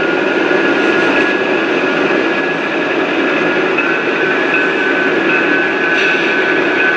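Model trains running on a layout: a steady rolling noise with a few high, held tones.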